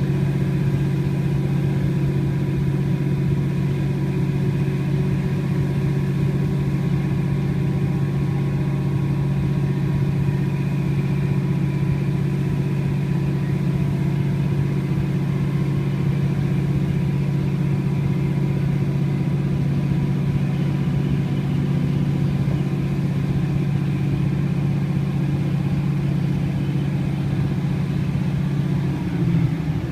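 Class 156 Sprinter diesel multiple unit's underfloor Cummins diesel engine working hard at full power while the train accelerates, heard from inside the carriage: a loud, steady drone with a strong low note. Near the end the note breaks and shifts.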